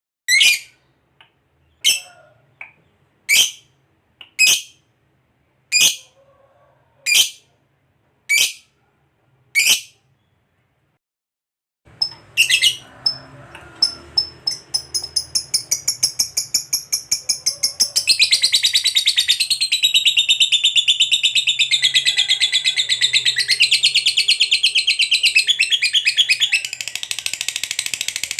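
Lovebird calling: eight single sharp, high chirps about a second and a half apart, then after a short pause a fast rattling trill that builds up and runs on unbroken, the long 'ngekek' chatter.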